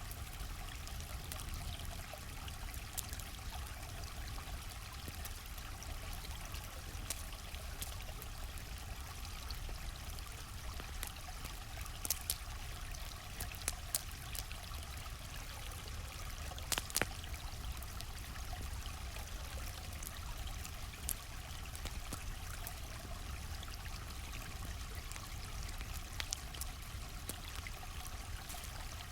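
A stream running steadily, with the occasional sharp pop and crackle of a wood campfire. The loudest pops come in a few small clusters around the middle.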